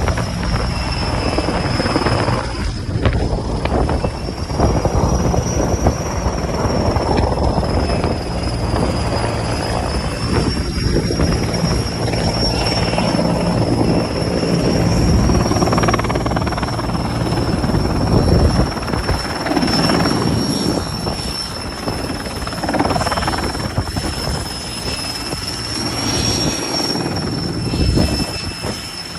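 Helicopter running close by, its rotor blades throbbing under a steady high-pitched turbine whine.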